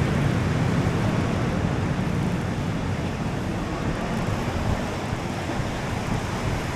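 Steady seaside outdoor ambience: a continuous wash of road traffic and surf, with wind on the microphone.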